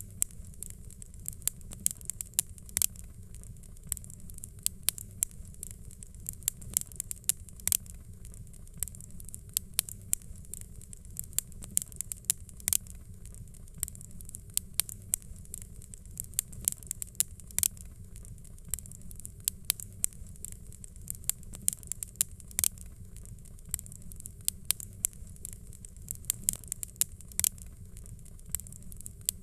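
Wood fire crackling: irregular sharp pops and snaps, several a second, over a steady low rumble and a faint hiss.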